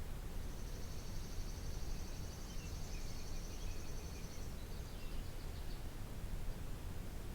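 Outdoor garden ambience: a steady low rumble. Over it, a high trilling call starts just after the beginning, lasts about four seconds and breaks up, with a few softer chirps beneath it.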